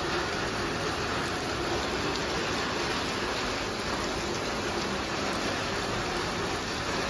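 Heavy rain pouring down steadily, an even hiss of rain on the ground and walls.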